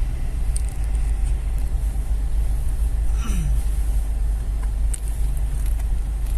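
Steady low rumble of a car driving on the road, heard from inside the cabin, with a short falling tone about three seconds in.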